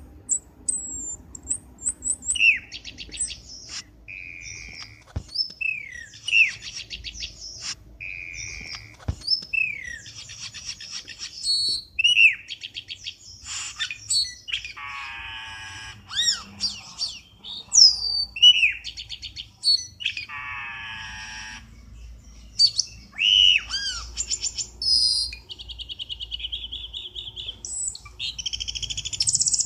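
Cucak keling birdsong as played for a trapping lure: a continuous, varied string of sharp chirps, quick whistled slurs, fast trills and harsh rattling calls.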